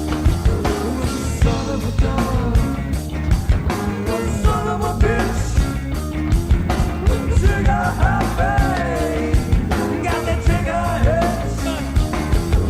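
Rock song with a steady drum beat and a voice singing over the band.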